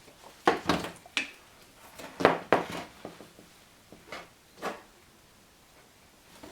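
A few separate knocks and clatters of hard parts being handled: a car's windshield wiper arm and linkage pieces being turned over and set down.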